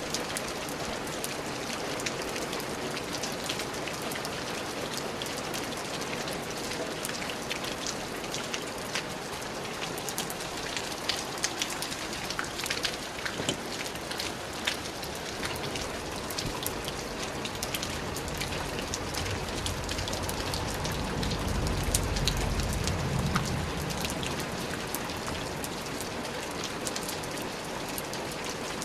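Steady rain falling, with many sharp drop ticks close by. A low rumble swells and fades about twenty seconds in.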